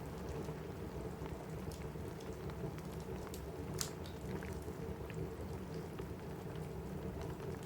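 Steady rain falling on a roof, with a wood fire crackling in a fireplace: scattered sharp pops and snaps over the rain, the loudest one about four seconds in.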